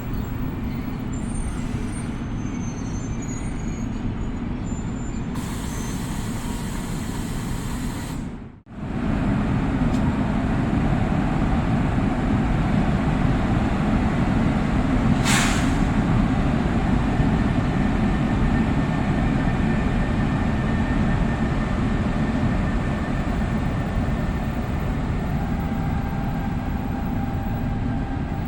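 NJ Transit commuter train running at a station platform in heavy rain: a steady low rumble under the hiss of the rain, with a short sharp burst of air hiss about halfway through. The sound breaks off for a moment about a third of the way in.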